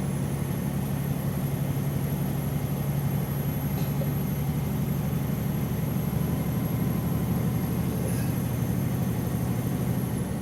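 Truck engine and road noise heard from inside the cab while driving: a steady low hum with no change in speed.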